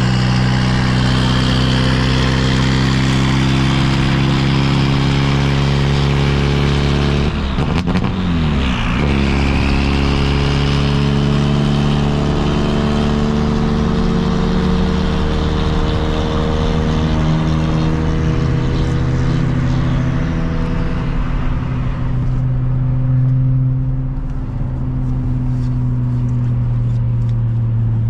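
Car engine running steadily, its pitch dipping and rising in a brief rev about eight seconds in.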